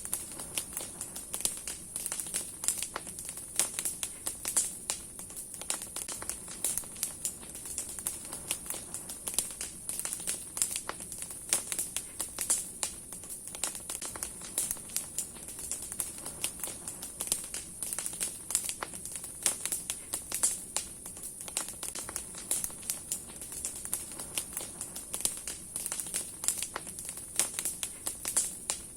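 Large wood campfire burning hard, its logs and branches crackling with dense, irregular snaps and pops over a steady high hiss.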